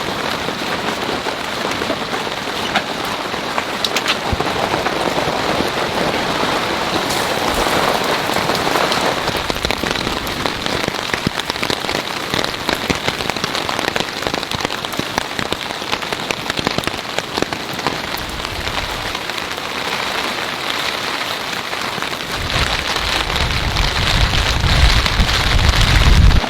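Heavy rain falling hard on a close surface, a steady dense patter of drops. A low rumble builds near the end.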